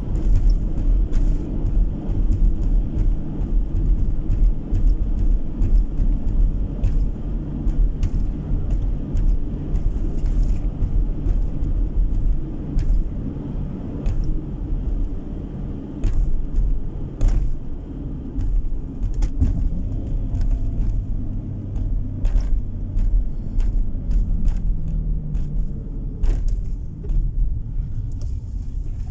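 Car driving on the road, heard from inside the cabin: a steady low rumble of engine and tyres with scattered light knocks, and the engine note shifting about three-quarters of the way through.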